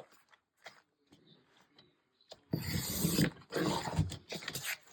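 Paper being cut to trim it, in a short stretch of cutting about halfway through and then a run of shorter cuts until near the end.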